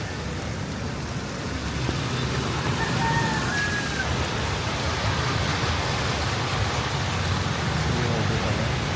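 Steady hiss of rain and water on a wet, flooded street, with a low rumble of motor traffic beneath it.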